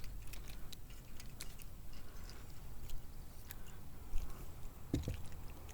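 Faint, irregular light clicks and handling noises while a small sunfish is brought in on rod and reel from a kayak, with a brief low thump about five seconds in.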